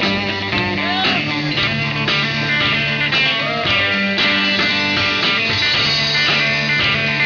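Country band playing live: a guitar takes an instrumental break with bent notes, over bass and a steady beat.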